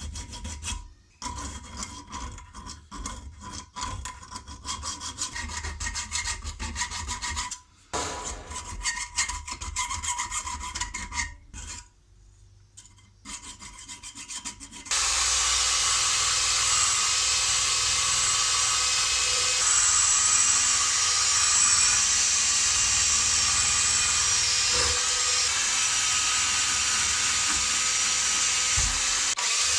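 Rapid hand abrading strokes on an old steel spanner, broken by a few short pauses. About halfway through, a small power tool starts and runs steadily and more loudly.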